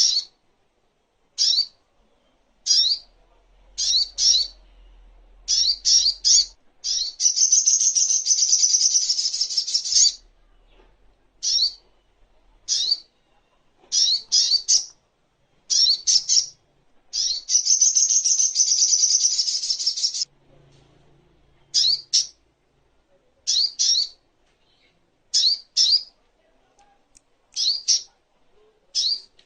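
Little spiderhunter calling: sharp, high chirps, singly or in quick pairs and triplets, roughly once a second, broken twice by a long rapid trill lasting about three seconds, about a quarter of the way in and again just past halfway.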